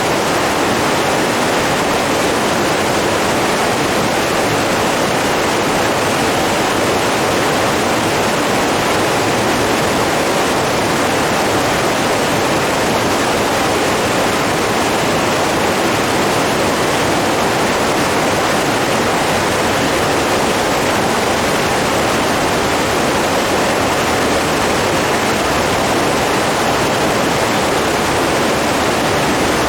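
Running water rushing steadily, an even noise with no rise, fall or rhythm.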